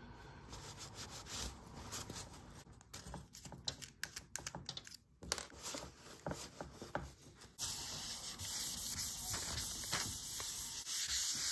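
Watch crystal being rubbed and polished with cerium oxide paste, a run of uneven scratchy rubbing strokes. About two-thirds of the way through a steady hiss comes in under the rubbing.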